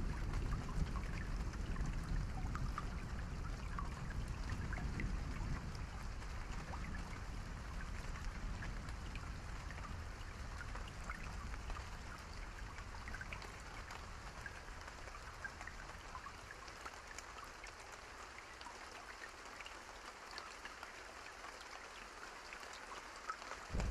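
Steady rain with individual drops pattering on a surface. A low rumble underneath fades away over the clip, leaving the rain quieter and thinner.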